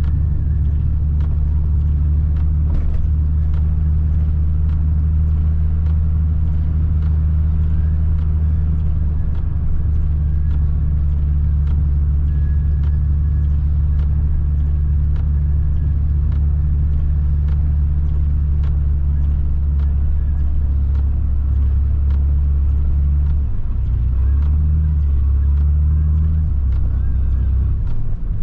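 Nissan 300ZX's V6 engine droning steadily as heard inside the cabin while driving. The engine note shifts several times near the end.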